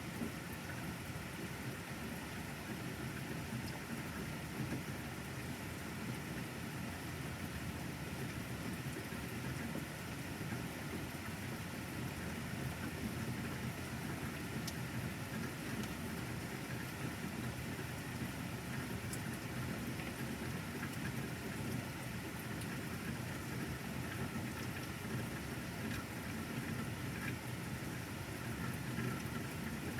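Steady rain falling, with a constant low rumble underneath and a few faint drop ticks.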